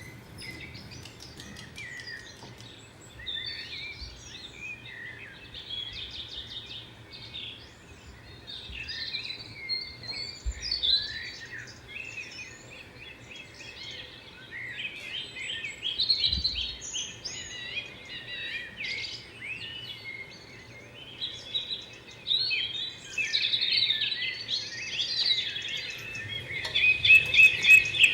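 Many birds chirping and singing at once, short overlapping calls and trills that grow denser and louder near the end. A couple of faint low thumps sound in the middle.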